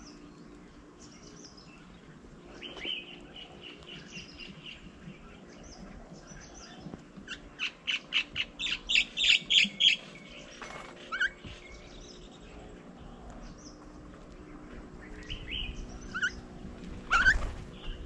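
Birds calling around the table: a held trilling note about three seconds in, then a fast run of about ten loud repeated chirps around eight to ten seconds, with scattered short chirps. A brief loud rush comes near the end.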